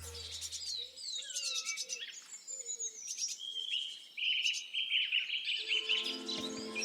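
Birds chirping and calling, with short downward-sliding whistles and a fast run of repeated chirps in the middle. Background music fades out early and comes back near the end.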